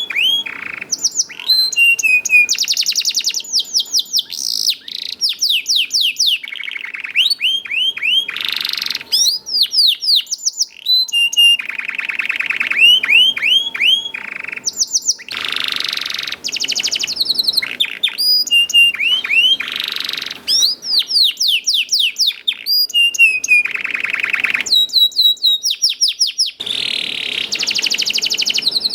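Domestic canary singing a continuous song of rapid rolling trills and runs of repeated falling 'cuit cuit' notes, changing phrase every second or two.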